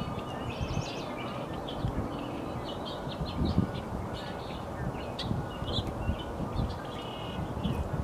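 Wild birds chirping in short, scattered notes and brief trills, over a steady low rumble of background noise.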